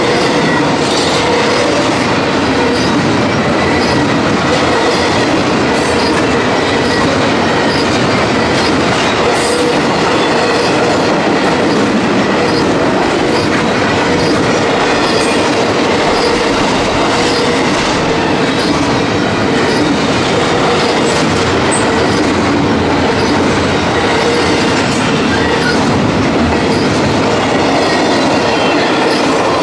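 Double-stack intermodal freight train rolling past close by at speed, a steady, loud rush of steel wheels running over the rails that does not let up.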